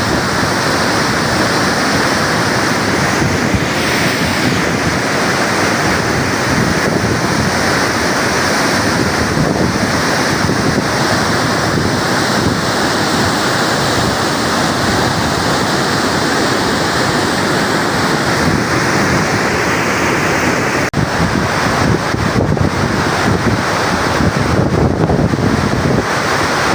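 Dam spillway discharging, a loud steady rush of water, with a brief break about three-quarters of the way through.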